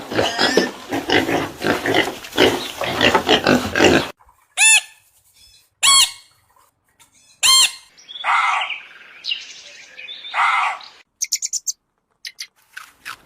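A run of animal calls. For about the first four seconds there is a dense jumble of calls; then come three short squawks, two harsher, longer calls, and near the end a quick burst of chirps.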